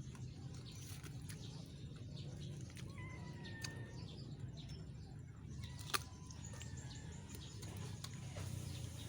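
Chewing and crunching of raw vegetables close to the microphone: scattered sharp crunches, the loudest about six seconds in, over a steady low background rumble. Faint thin calls are heard around the middle.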